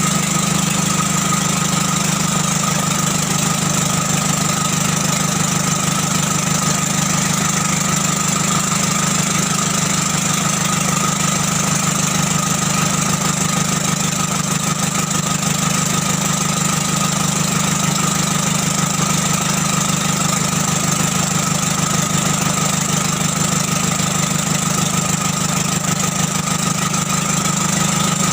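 An engine running steadily at one constant speed, with an even hum that does not change.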